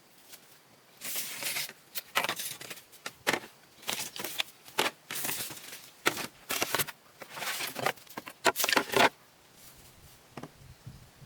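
A quick run of short rustling, scraping strokes, about a dozen over some eight seconds, that stops near the end.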